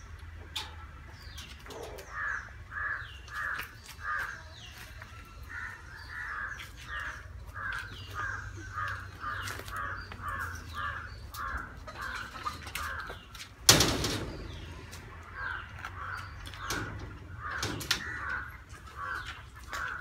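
A bird calling over and over in a steady series, about two calls a second, with a short break about two-thirds of the way through. A single loud bang falls in that break.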